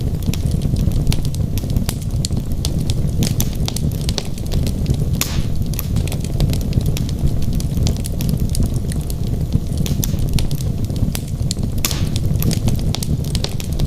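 Wood logs burning in a fireplace: a steady low rumble of flame with frequent sharp crackles and pops, one louder snap about five seconds in.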